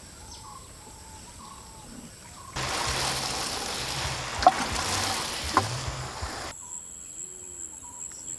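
Birds chirping outdoors. From about two and a half to six and a half seconds in, a loud, even rushing noise starts and stops abruptly, with two sharp clicks in it.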